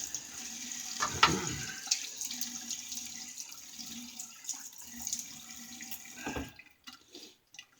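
Water running from a tap into a bathroom sink, with a sharp knock about a second in. The tap is shut off about six and a half seconds in, leaving a few faint ticks.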